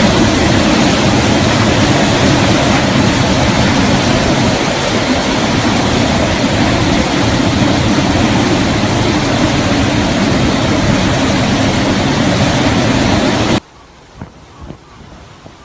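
Hurricane wind blowing hard, a loud steady rush of noise buffeting the microphone. It cuts off abruptly near the end, leaving a much quieter background with a few faint knocks.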